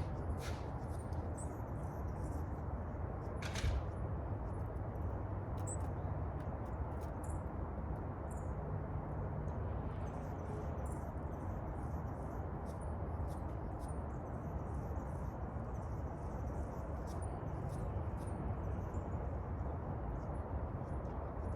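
Small birds giving many short, high chips and squeaks over a steady low background rumble, with a sharp click about three and a half seconds in.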